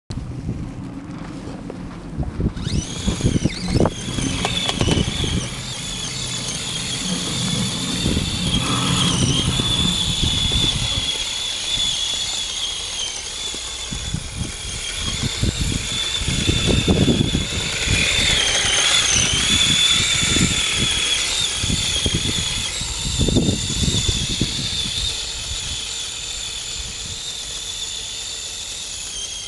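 Electric radio-controlled Tamiya Blizzard running, its motor and gears giving a high whine that starts about two and a half seconds in and dips and rises in pitch with the throttle. Low knocks and rumbles come and go beneath it.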